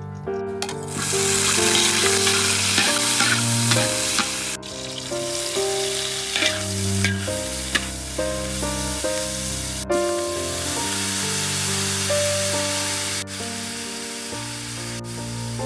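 Food sizzling and frying in hot oil in a pan. It starts about a second in and stays loud, over background music with a melody.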